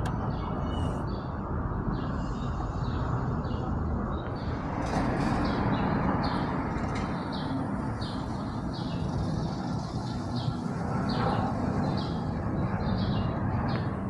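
Small birds chirping in short repeated calls, one or two a second, busier in the second half, over a steady low rumble of background vehicle noise.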